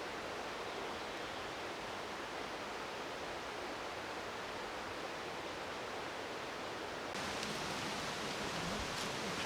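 Steady rush of water in a mountain gorge stream and waterfall. About seven seconds in it becomes slightly louder and brighter.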